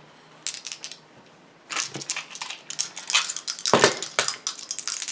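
Playing cards being shuffled and handled on a tabletop: a few separate clicks, then a dense run of quick clicks and rattles through the second half.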